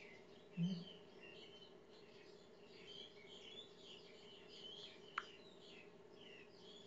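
Faint bird chirping in the background, many short calls through the whole stretch, over a low steady hum. A brief low sound comes about half a second in, and a single sharp tick just after five seconds.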